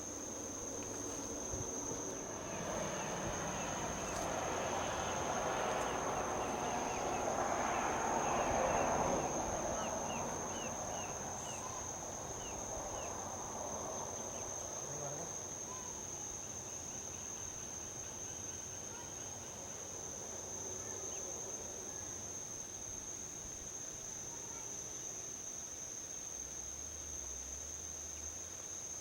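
Insects trilling steadily at a high pitch, while a single vehicle passes on a highway, its tyre and engine noise swelling to loudest about eight seconds in and fading away by about fifteen seconds.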